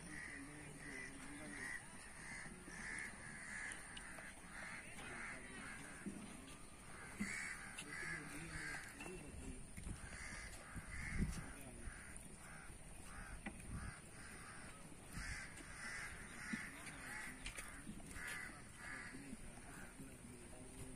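Birds calling in repeated runs of short notes, with a brief low thump about halfway through.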